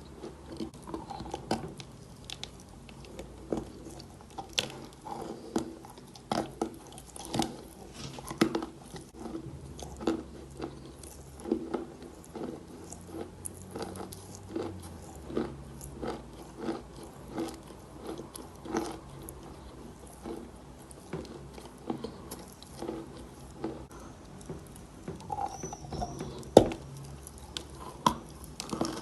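Chalk being bitten and chewed close to the microphone: a steady run of dry, sharp crunches, one to two a second.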